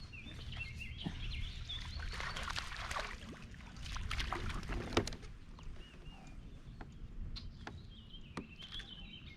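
Small birds chirping over a noisy rush with sharp clicks around a kayak; the noise is loudest from about two to five seconds in and then settles.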